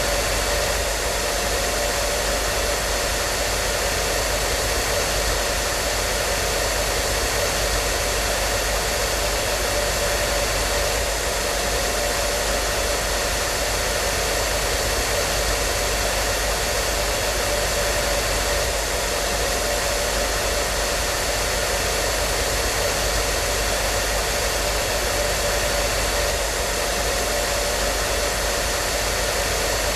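Hair dryer running steadily: a constant airy rush with a faint steady hum, unchanging throughout.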